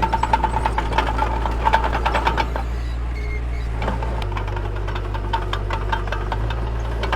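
Mini bulldozer's diesel engine running steadily, with a rapid clatter of metal clanks and rattles over it, thickest in the first two and a half seconds. The engine note shifts about four seconds in and back again near the end.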